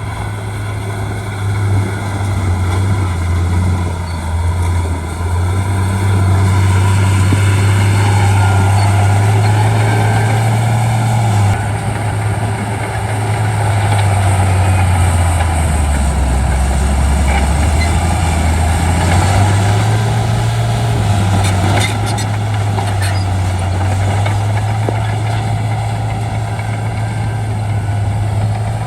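Shantui D95 bulldozer's diesel engine working hard under load while pushing fill. Its note sags lower about halfway through, as if lugging, and then picks back up.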